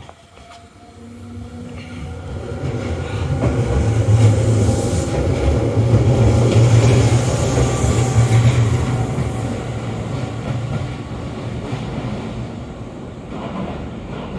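Tobu 8000 series electric train running by on the rails, with a low hum. It grows loud over the first few seconds, stays loud for several seconds, then slowly fades.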